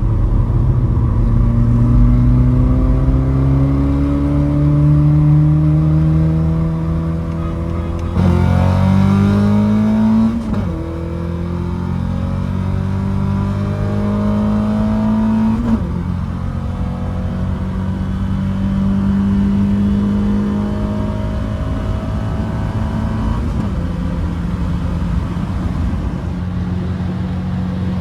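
Car engine pulling hard through the gears: the pitch climbs in each gear and drops at each change, about eight, ten and a half, sixteen and twenty-three seconds in. A brief hiss sits over the first change.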